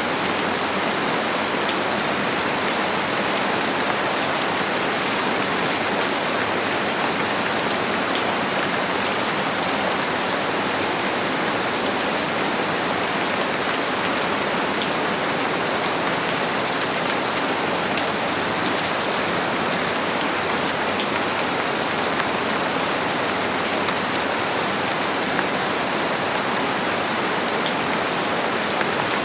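Steady rain falling, a continuous hiss with a dense patter of individual drops landing on a surface.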